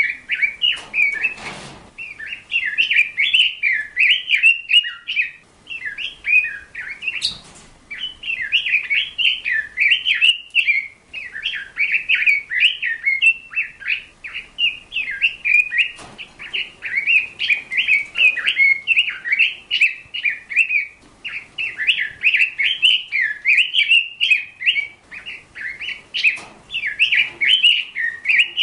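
A bird chirping and warbling in fast, dense runs of high notes, almost without pause.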